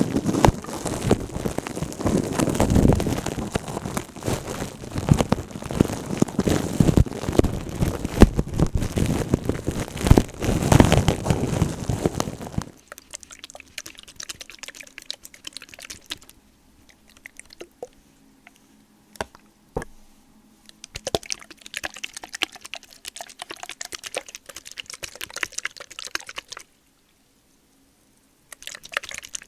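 Close-miked ASMR trigger sounds made by handling objects. A dense, crackling rustle runs for about the first half, then stops abruptly. Sparse clicks and light taps follow, with a short lull near the end.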